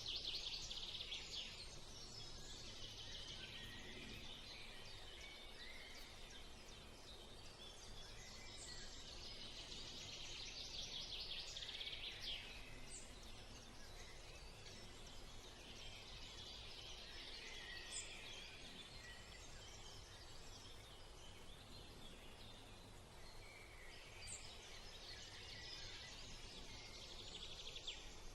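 Faint outdoor nature ambience: a high, dense buzzing chorus that swells and fades several times, with a few short bird chirps over it.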